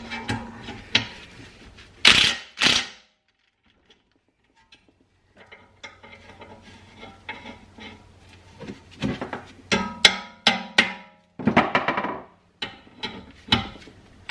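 Hand tools at work on the car's rear brake and suspension: irregular metallic clicks, knocks and short bursts of ratcheting, with a pause a few seconds in.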